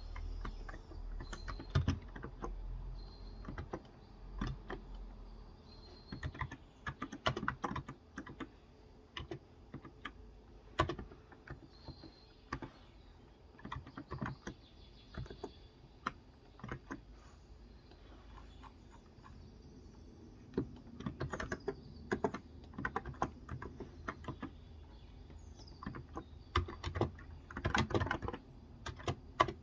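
Typing on a Cox Endeavour electro-capacitive (contactless) 35 g tenkeyless keyboard: irregular runs of keystrokes with short pauses, densest in a flurry near the end.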